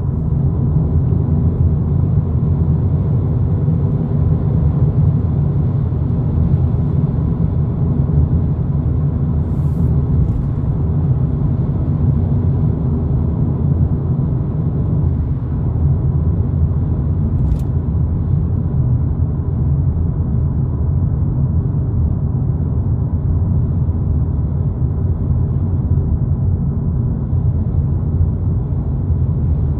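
2022 Volkswagen Polo GTI driving along, a steady rumble of engine and road noise. Two brief clicks, one about a third of the way in and one a little past the middle.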